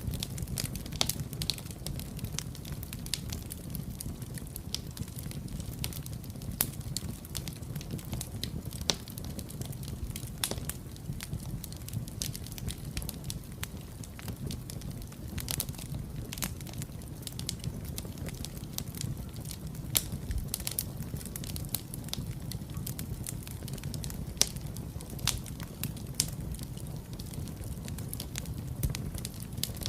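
Wood fire burning in a fireplace: a steady low rumble of flames with irregular crackles and occasional louder pops.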